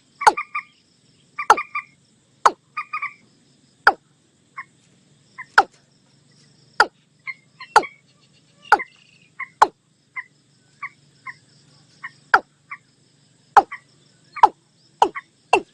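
Watercock and common moorhen calls, as played on a lure recording: sharp, loud clipped calls at irregular intervals of about a second, with quieter short paired notes between them.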